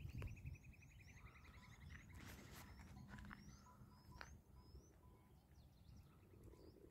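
Faint outdoor ambience of small birds chirping: a run of short high chirps, and a rapid trill that slowly falls in pitch over the first two and a half seconds. A soft low rumble sits underneath.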